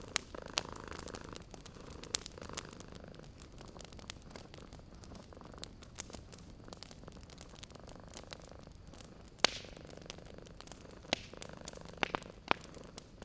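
Domestic cat purring steadily, with scattered sharp pops and crackles from a wood fire; one pop stands out louder about nine seconds in.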